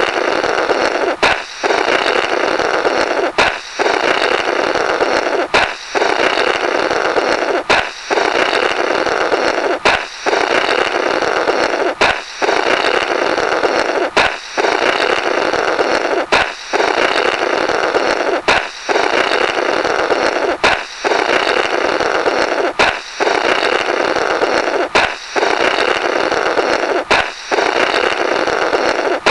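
Comic 'blorrrt' balloon-break sound effect on a loop: a sharp balloon pop, then a raspy, buzzing blow through the burst rubber lasting about two seconds. The cycle repeats about every two seconds, thirteen times.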